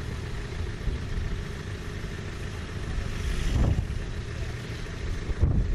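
Off-road 4x4's engine running at low revs, swelling briefly about three and a half seconds in.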